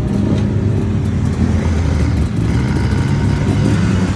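Honda VFR750's V4 engine running at steady revs, with a steady rush of wind noise over it.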